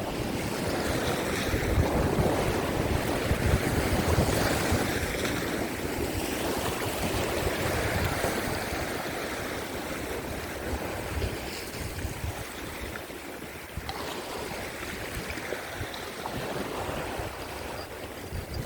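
Rough sea waves surging and breaking against shore rocks, with strong wind buffeting the microphone; the rush swells and is louder in the first half, easing after about 12 seconds.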